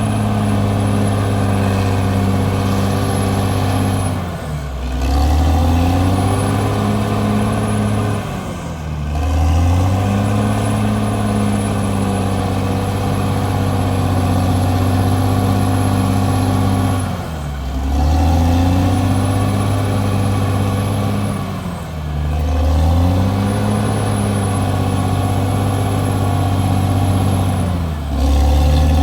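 CAT D6R bulldozer's diesel engine running at high revs under steady load. Five times its pitch briefly sags and climbs back, every four to nine seconds.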